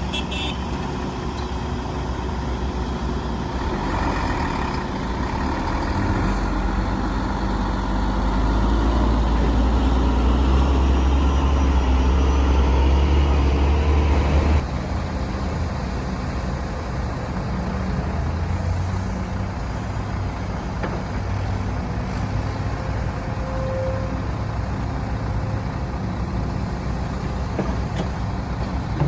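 Heavy diesel engines of an excavator and dump trucks working, a steady low rumble. The rumble builds louder under load for several seconds, then drops abruptly about halfway through to a lower, steady running level.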